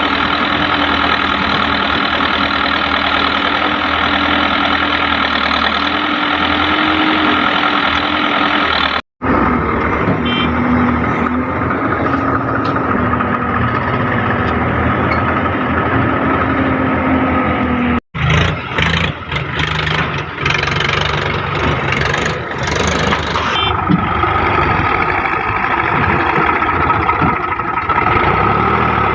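Diesel engine of heavy machinery, a tractor or backhoe loader, running steadily under load. The sound drops out for an instant twice, about nine and eighteen seconds in.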